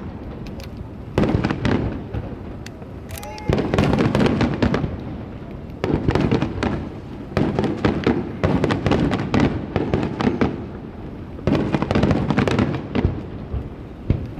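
Star mine fireworks barrage: rapid volleys of shells bursting and crackling, in waves every two to three seconds with brief lulls between.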